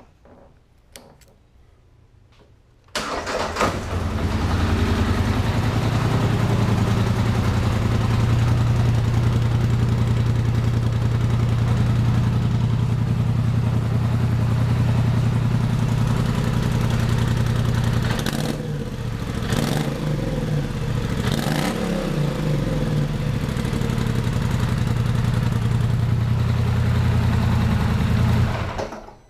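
2017 Polaris Sportsman 1000 XP ATV's parallel-twin engine, through its stock exhaust, starting about three seconds in and settling into a steady idle. Its note rises and falls a few times about two-thirds of the way through, then it is shut off just before the end.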